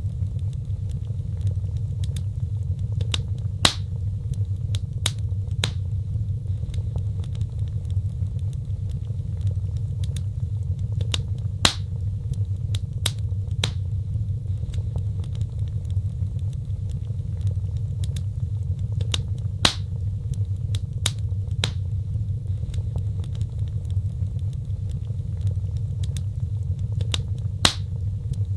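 Wood fire crackling: frequent sharp snaps and pops over a steady low rumble, with a louder pop about every eight seconds.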